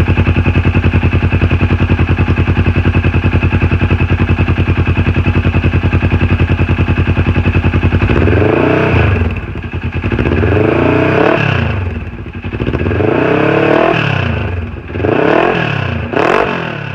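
Polaris RZR XP 900's parallel-twin engine through a full Yoshimura RS-4 exhaust, with the clutch vents plugged so the exhaust note dominates. It idles with an even pulse for about eight seconds, then is revved up and back down four times, with a quick short blip near the end.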